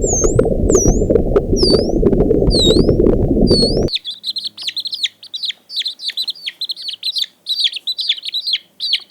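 Birds calling: for about four seconds, repeated whistled swooping calls, roughly one a second, over a loud even low noise; then the sound cuts abruptly to rapid, busy high chirping.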